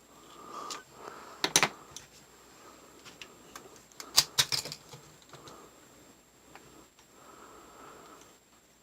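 Small clicks and clatters of tools and parts being handled as a brushless motor is worked out of an RC car chassis. The loudest clacks come about a second and a half in, and twice more around four seconds in.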